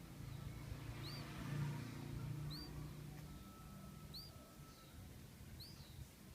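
Nestling birds calling while they wait to be fed: short high chirps, each rising and then falling, about one every second and a half. A low hum swells and fades in the first half.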